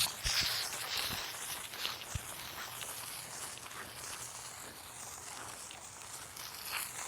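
Water spraying from a garden hose, a hiss that dies down to faint patter and rustling, with a few soft knocks early and another short burst of spray near the end.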